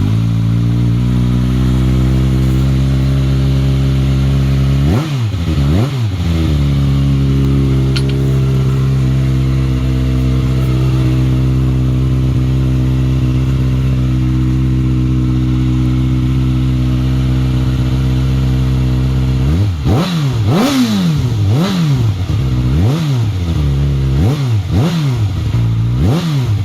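2014 Kawasaki ZX6R 636's inline-four engine through an Arrow slip-on exhaust with the baffle removed, idling steadily. It is blipped twice about five seconds in, then revved in a quick run of short blips near the end, each rising and falling back to idle.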